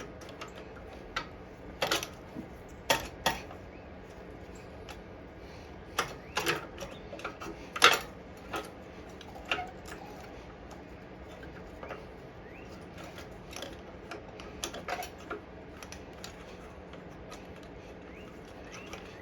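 Irregular clicks and light metallic taps of small parts and tools being handled while a lawn mower carburettor and linkage are refitted, bunched in the first half with the sharpest click about eight seconds in, then sparse and faint.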